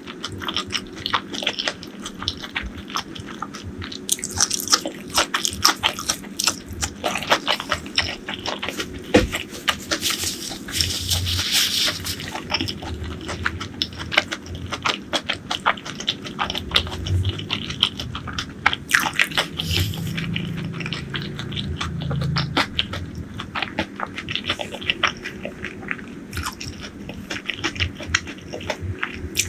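Close-miked eating: repeated biting and chewing with crunching and wet, crackling mouth sounds.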